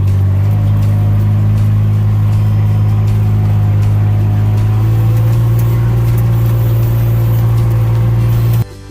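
Kubota RTV1140 utility vehicle's three-cylinder diesel engine running steadily with a low drone while driving in four-wheel drive. The sound cuts off suddenly near the end.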